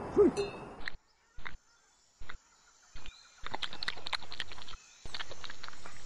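Coati eating from a stainless steel bowl: quick clicks and clinks of snout and teeth against the metal, in short separate bursts that become longer runs in the second half.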